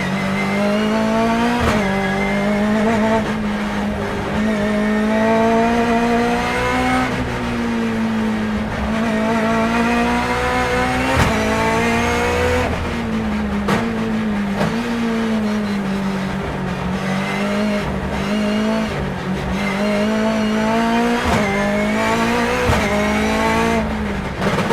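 Turbocharged BMW S14B20 four-cylinder in an E36 time attack car under hard acceleration, heard onboard. The revs climb and drop again and again as the six-speed sequential gearbox shifts, with a sharp crack at several of the changes.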